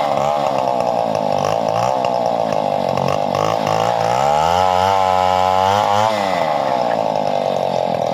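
Two-stroke chainsaw running at high speed while cutting wood, its engine note wavering; midway it dips in pitch as the chain bogs under load, then climbs back up.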